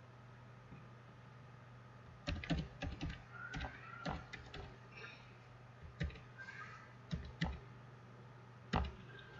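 Computer keyboard keys tapped in short, irregular clusters as a password is typed in. The typing starts about two seconds in and ends with a single key press near the end.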